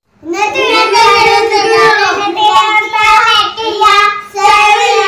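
A child's high voice holding long, wavering notes in about four drawn-out phrases, with short breaths between them.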